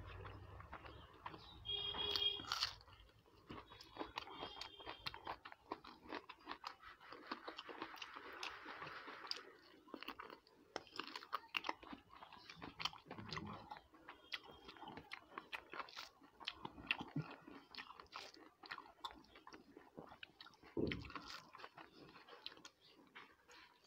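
Close-miked chewing of a mouthful of rice and curry eaten by hand, with many small clicks from the mouth. A brief high-pitched squeak about two seconds in.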